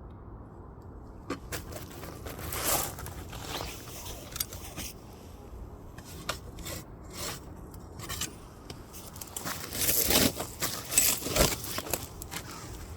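Firewood and embers in a wood fire being scraped and shifted: a run of rough scrapes and sharp clicks and clatters, loudest and busiest from about ten to eleven and a half seconds in.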